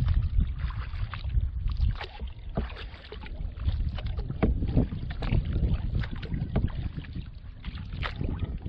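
Kayak paddling: water splashing and dripping off the paddle blades in a string of irregular small splashes. Wind rumbles on the microphone, heaviest in the first two seconds.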